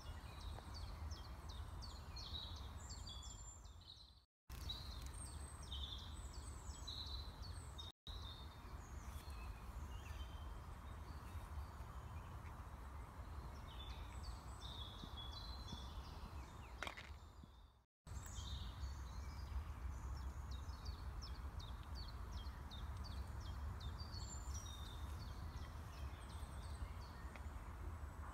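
Wild birds singing, a busy run of short, quick, high chirps and trills repeated over and over, over a low steady background rumble. The sound cuts out completely for a moment three times, near 4, 8 and 18 seconds in.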